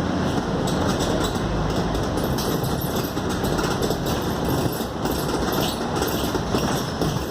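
Inside a Scania K280UD double-decker bus under way: the diesel engine and road noise run steadily, with light irregular rattling from the body and fittings.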